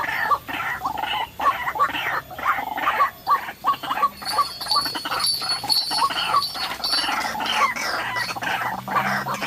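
White-breasted waterhen calling, a rapid, rhythmic series of short croaking notes, about three a second and going on without a break. A faint high steady whine joins in over the middle few seconds.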